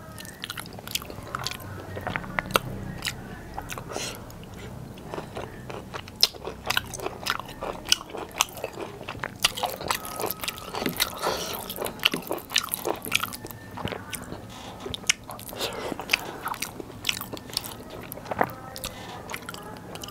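Close-miked chewing and lip-smacking of a mouthful of biryani rice and soft chicken, eaten by hand: a dense, irregular run of wet mouth clicks and smacks, with the squish of fingers working the rice and curry.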